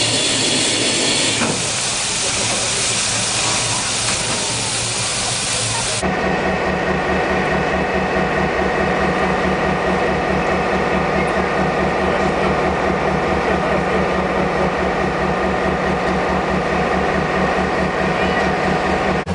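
Railway locomotive sounds: a steady loud hiss for about six seconds, then, after an abrupt change, a locomotive running with a steady low, evenly pulsing hum.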